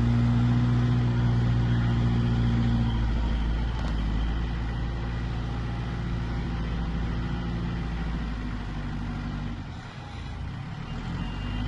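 A vehicle engine running, with a steady hum that drops about three seconds in, then a lower rumble that dips briefly near the end.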